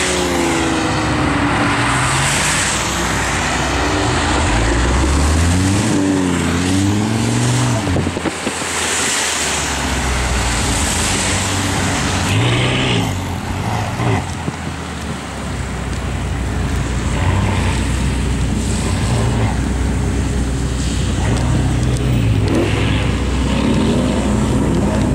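Lamborghini Huracán LP610-4's V10 engine revving several times, its pitch rising and falling with each blip, between steadier stretches of idle.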